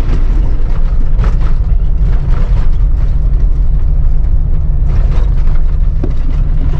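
Vehicle driving on a corrugated gravel road: a loud, steady low rumble with constant rattling.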